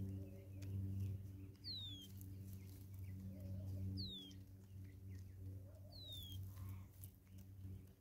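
A bird gives a short, clear whistle that falls in pitch, three times, about two seconds apart. Faint taps come from a Natal spurfowl pecking crumbs off a log. A steady low hum runs underneath.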